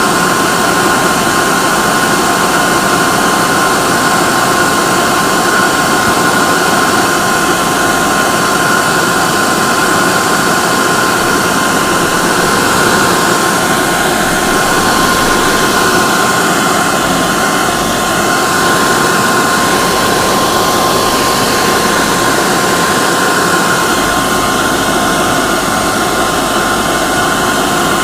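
Hair dryer running steadily, a loud even rush of air with a constant high whine from its motor and fan.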